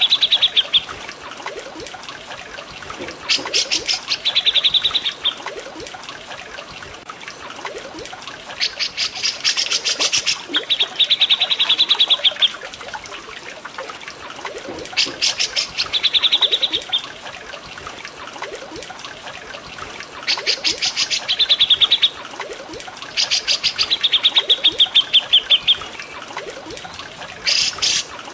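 Cucak jenggot (grey-cheeked bulbul) and cililin bird calls over trickling water. A phrase comes back every few seconds, about six times: a quick burst of sharp rattling notes, then a fast, even, high trill. Steady water trickling underneath.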